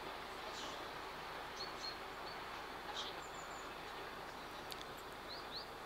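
Steady outdoor background noise with a few short, high rising chirps from small birds, about two seconds in and again near the end.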